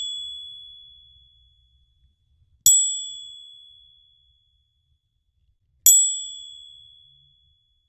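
A metal 'Year of the Pig' commemorative medal clinking: two bright, ringing strikes about three seconds apart, each dying away over a second or so. The ring-out of an earlier strike fades at the start.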